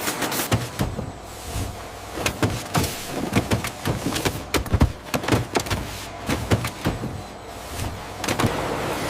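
Irregular mechanical knocks and clatters, many sharp strikes in quick, uneven succession over a steady machinery hum, easing off near the end.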